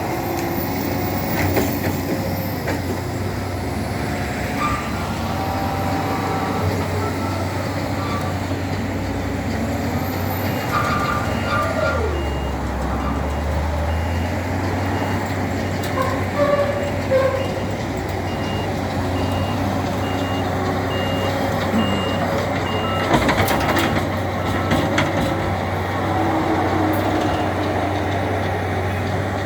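Shovel loader's engine running steadily while working, with its reversing alarm beeping at an even rate for about ten seconds in the middle. A few clanks of the machine or its load come near the middle and later on.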